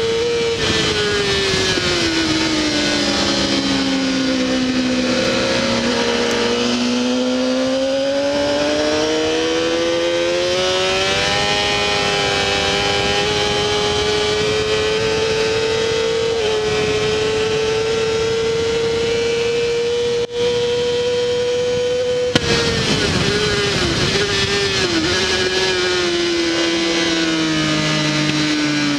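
Honda CBR600RR inline-four engine heard onboard at racing speed. The note falls over the first few seconds, then climbs and holds high through a long run. About 22 seconds in it drops sharply, with a string of quick blips as the bike brakes and downshifts, and keeps falling to the end.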